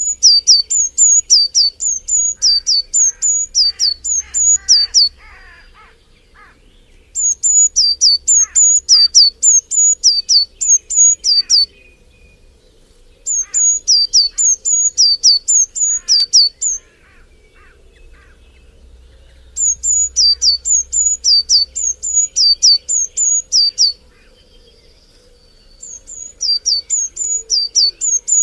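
A bird singing phrases of rapid, high, downslurred whistled notes, about three or four a second. Each phrase lasts several seconds and is followed by a pause of one to three seconds, five phrases in all, with fainter, lower chirps beneath.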